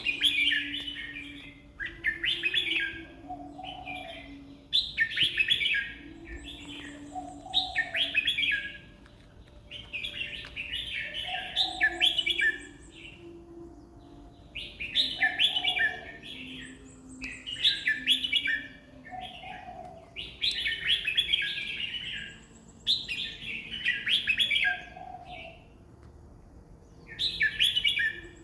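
Caged red-whiskered bulbul singing: short, loud warbled song phrases repeated about every two to three seconds.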